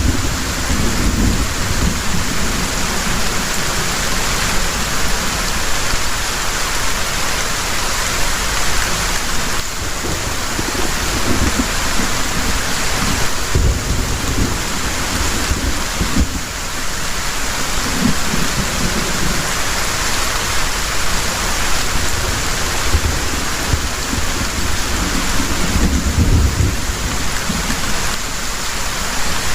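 Heavy rain pouring steadily, with low rolls of thunder rumbling several times, strongest near the start, around the middle and near the end.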